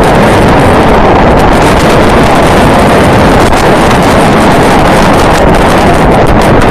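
Loud, steady wind noise buffeting the microphone of a camera carried along on a moving bicycle.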